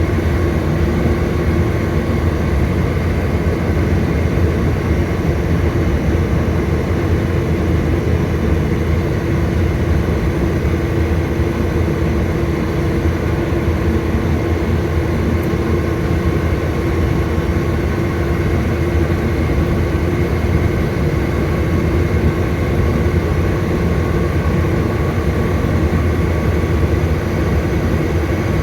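Volvo B9TL bus's six-cylinder diesel engine running steadily, a low drone with a steady higher tone held over it.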